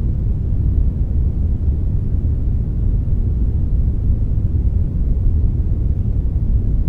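Steady brown noise blended with a little white noise: an even, deep rumbling hiss with most energy in the low end and a faint hiss above, unchanging throughout.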